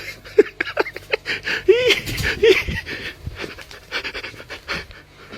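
An animal panting rapidly in quick, noisy breaths, with three short rising-and-falling cries in the first half.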